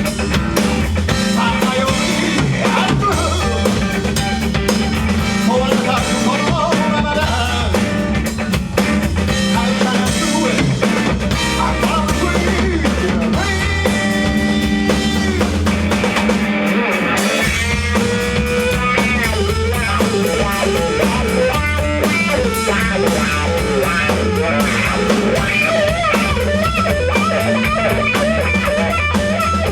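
Live rock band playing: drum kit and guitar.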